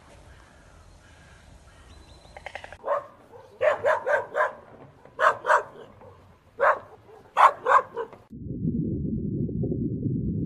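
A dog barking, about a dozen sharp barks in quick clusters of two or three. Near the end the barking stops and a steady low rumbling noise takes over.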